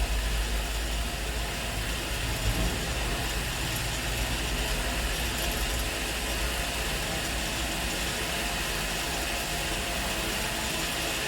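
Heavy diesel engine running steadily at low speed, a deep low rumble that holds level, slightly louder in the first second.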